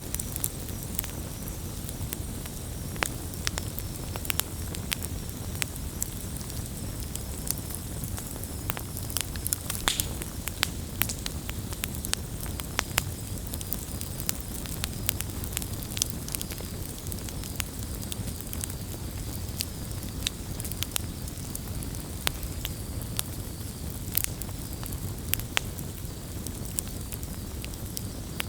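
Wood campfire burning, with a steady low rumble of flame and frequent irregular sharp crackles and pops.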